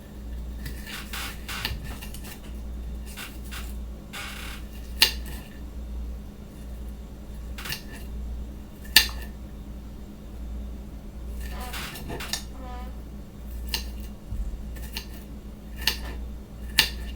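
Knife chopping an onion: irregular sharp knocks of the blade, a few louder strikes several seconds apart, over a steady low hum.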